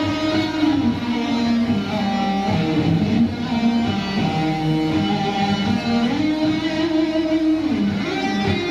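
Live rock band playing, electric guitar to the fore over bass and drums, with long held melody notes that change pitch every second or two.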